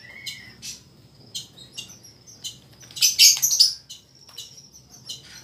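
Small bird chirping repeatedly in short, high calls, with a louder run of chirps about three seconds in.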